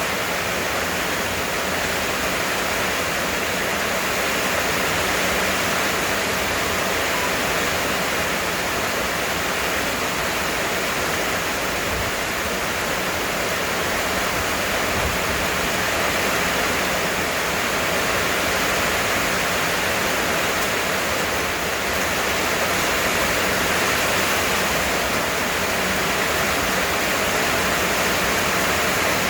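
Heavy rain pouring steadily, a dense, even hiss without let-up.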